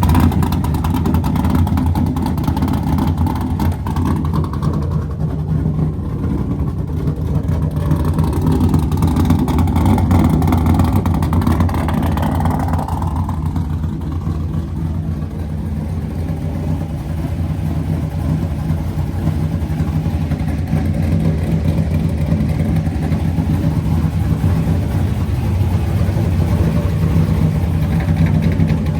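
A car engine running steadily and low-pitched through the whole stretch, with only small rises and falls in its speed.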